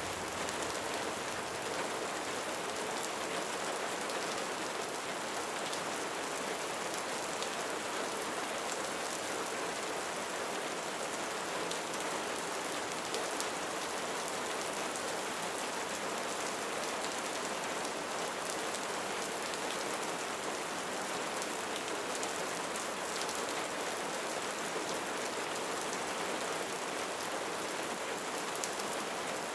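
Steady rain falling on a roof: a dense, even patter of drops with faint individual ticks and no letup.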